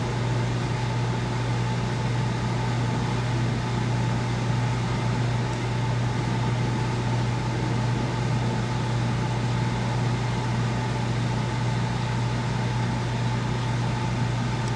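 Freight train's diesel locomotives running with a steady low drone and a faint steady higher whine above it.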